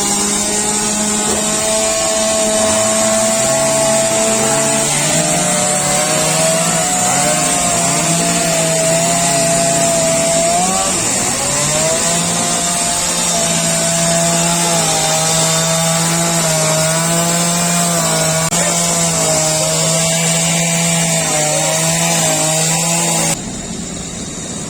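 Two-stroke chainsaw running and cutting through a storm-felled tree, its engine note wavering up and down under load. The sound cuts off abruptly near the end.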